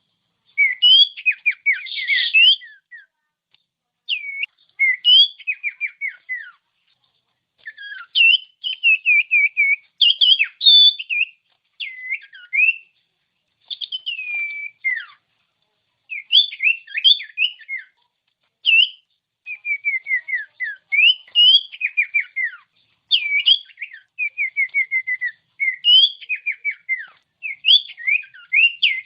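Common iora (cipoh) singing in repeated phrases of clear rising whistles and quick descending runs of short notes, with brief pauses between the phrases.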